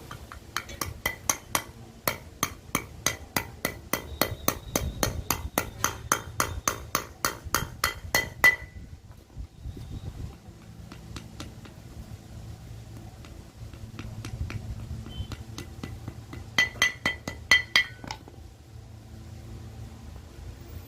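Hammer blows on metal while working a motorcycle wheel bearing: a long run of even, ringing strikes, about four a second, then a pause and a shorter quick run of blows later on.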